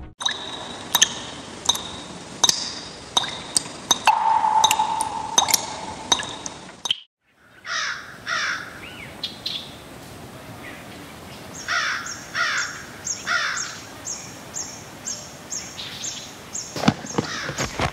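Birds calling in a country ambience: sharp chirps and short calls at first, then after a brief drop-out about seven seconds in, a run of repeated falling calls.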